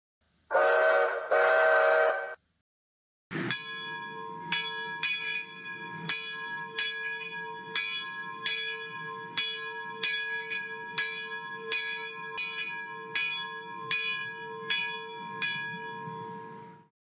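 A steam switcher's chime whistle gives one blast of about two seconds. After a short pause the engine's locomotive bell rings steadily, about two strokes a second, for some thirteen seconds.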